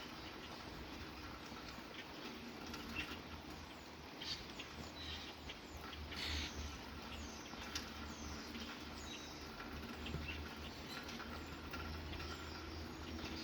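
Several birds chirping in short, scattered calls over the steady patter of rain.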